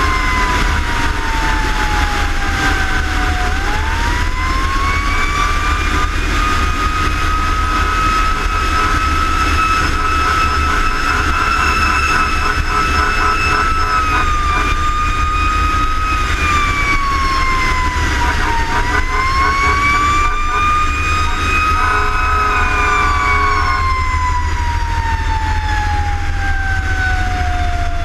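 Fire engine siren wailing, winding slowly up in pitch, holding, and dying away in long falls, over the steady low rumble of the truck's engine and the road. A short steady tone sounds alongside it about three quarters of the way through.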